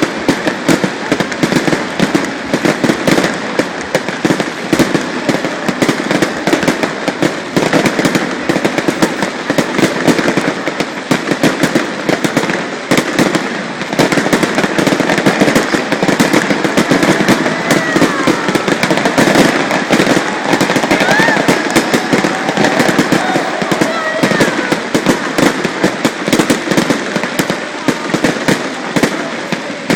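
Fireworks display going off continuously: a dense run of bangs and crackles with no gaps.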